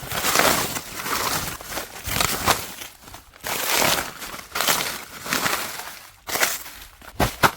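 Dry leaf litter and plant debris rustling and crackling in irregular swells as it is moved about, with a few sharper crackles near the end.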